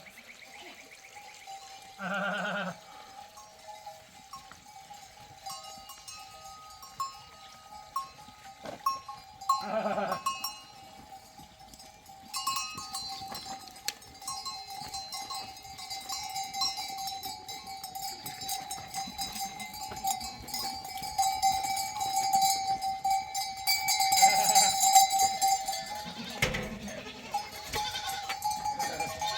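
Herd bells clanking on grazing goats, with goats bleating briefly about 2 and 10 seconds in and again near the end, when the bells grow busier.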